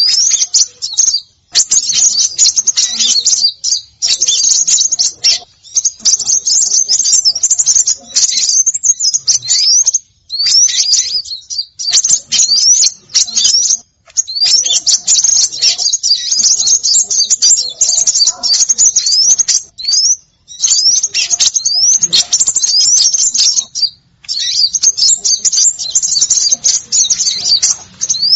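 Several small songbirds chattering together as a bird-lure recording: rapid, high, overlapping chirps mixed with quick rising whistled notes, broken by a few short pauses.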